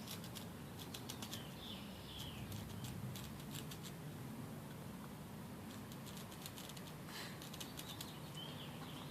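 Faint, scattered scratching and clicking of hand work on a sheet of cork gasket material, being traced and cut out, over a low steady room hum.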